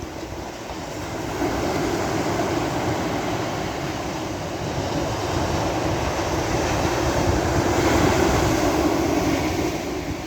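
Sea waves washing onto a beach: a continuous rushing surf that builds over the first couple of seconds, is loudest about eight seconds in, then eases near the end.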